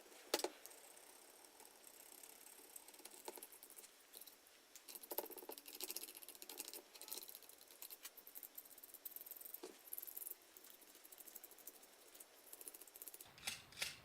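Faint, irregular scraping and light clicks of a hand tool lifting chemically softened paint off an old grinder's body, with a sharp click about half a second in.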